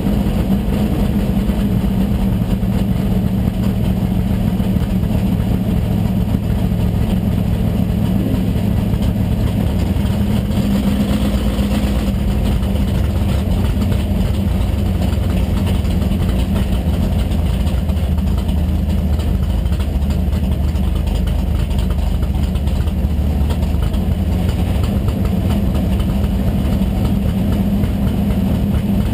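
1981 Chevrolet Malibu drag car's engine idling steadily, heard from inside the cabin as the car creeps forward, its low note shifting slightly a couple of times.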